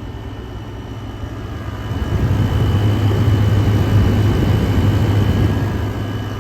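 Vissani 6,000 BTU air conditioner running in cool mode: a steady low hum from its GMCC compressor and fan, with a faint high whine. It grows louder about two seconds in and eases just before the end.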